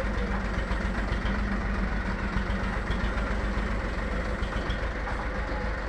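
A steady engine running at idle, a continuous low rumble with a faint hum.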